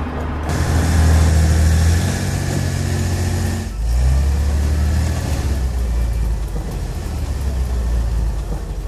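Cartoon sound effect of a heavy vehicle's engine running with a steady low hum that steps up about half a second in, dips briefly near the middle and picks up again. A hiss runs over it for the first few seconds.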